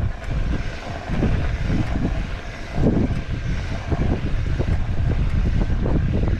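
TQ e-bike mid-drive motor running with a grinding noise, coming in uneven pulses over a low rumble. The local bike shop put the grinding down to upgraded cranks.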